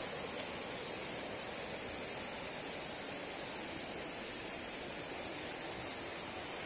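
Steady rushing of a waterfall, an even wash of falling water with no change.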